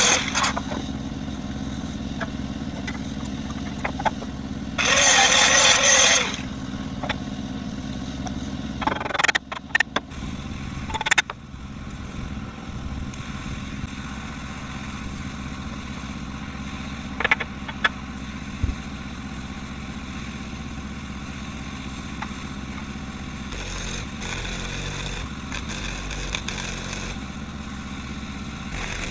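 A small engine or motor running steadily, overlaid by two loud hissing bursts within the first six seconds and a few sharp clicks and knocks a little later.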